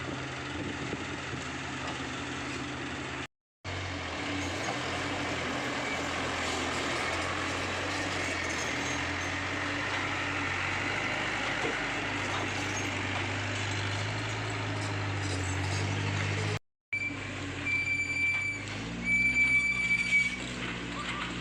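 Komatsu PC75UU excavator's diesel engine running steadily while working, with two brief gaps in the sound. Near the end come two short high-pitched squeals, about a second apiece.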